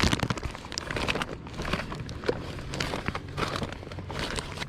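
A plastic bag of bird food being handled, giving an irregular crinkling rustle with many small crackles and clicks.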